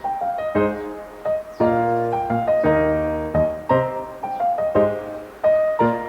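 Background piano music: a gentle melody of struck notes, each fading away before the next.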